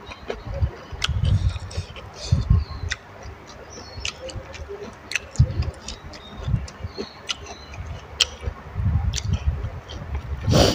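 Close-up eating sounds of a person chewing noodles and vegetables: repeated soft low thumps with many sharp clicks and smacks scattered throughout.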